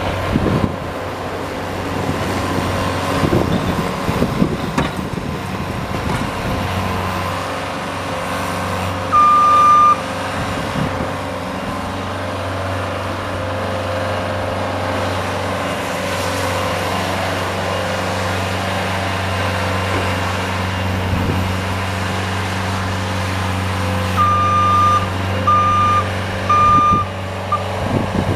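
Engine of a snow-plowing vehicle running steadily, with a high electronic beep once about nine seconds in and three beeps near the end.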